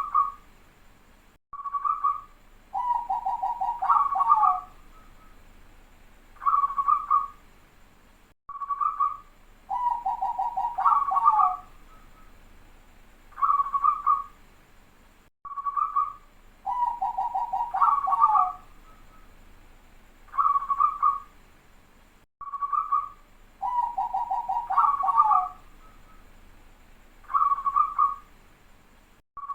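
Zebra dove (perkutut) singing: a few short cooing notes, then a fast rolling trill that ends on a higher note. The phrase repeats about every seven seconds, the dense, tight-sounding song used as a lure for wild zebra doves.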